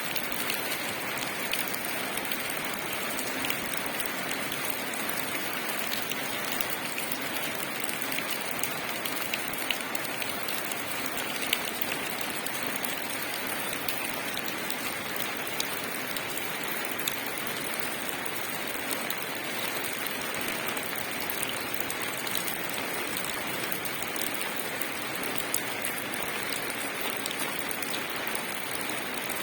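Steady rain falling on leaves: an even hiss with many separate drops ticking through it.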